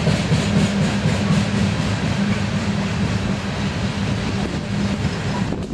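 BNSF freight train's open-top hopper cars rolling past, a steady noise of steel wheels on the rails.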